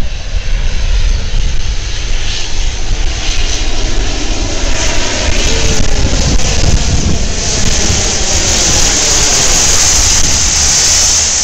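Water-tanker airplane's engines running loud as it passes low and sets down on the reservoir to fill up. A rushing hiss of water spray builds over the last few seconds as the plane skims the surface.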